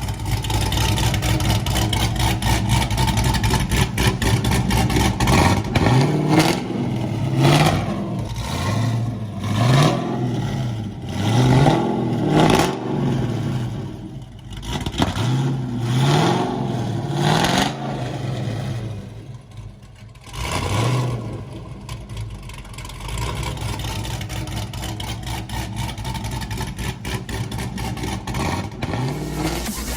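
2022 Chevy Colorado V6 running through a custom split dual performance exhaust, first idling, then revved in a series of quick rises in pitch. It then settles back to a steadier low note.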